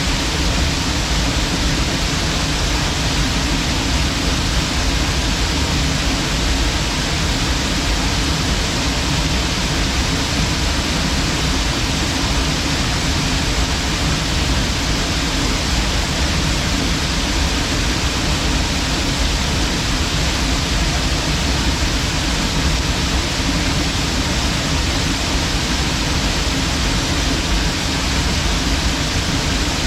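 Waterfall's steady rush of falling water: an even, unbroken noise with a deep low rumble beneath a bright hiss.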